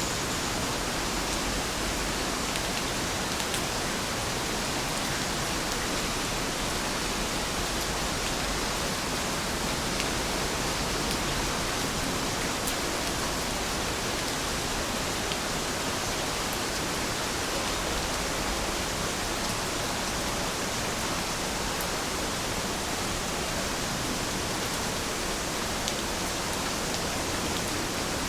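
Heavy rain falling in a steady, even hiss, with a few faint drop ticks.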